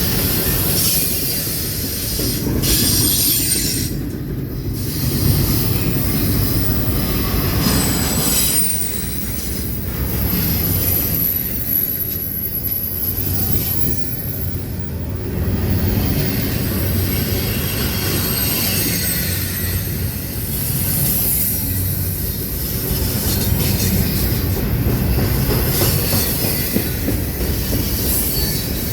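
A train rolling past, steel wheels running on the rails in a steady rumble that swells and eases every few seconds, with a high wheel squeal partway through.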